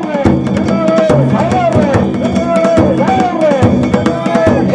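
Danjiri-bayashi festival music: taiko drum and struck gongs keeping a fast, steady beat, with a high line that rises and falls over it about once a second.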